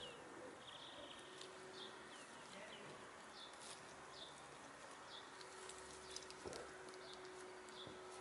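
Faint outdoor ambience: small birds chirping now and then in short, high, slightly falling calls, with a few soft clicks and a faint steady hum underneath.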